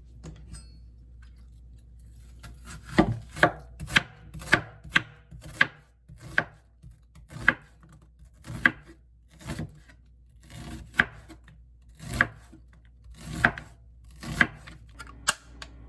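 A series of sharp, irregular knocks, about one or two a second.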